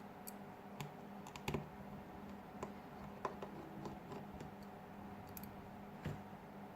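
Small irregular plastic clicks and taps, a few sharper ones about a second and a half and three seconds in and a duller knock near the end, from prying tools working the clips of a smartphone's plastic back cover, over a faint steady hum.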